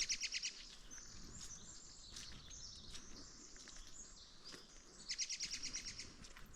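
Small songbird singing: a fast trill of repeated high notes near the start and again about five seconds in, with thin high notes between.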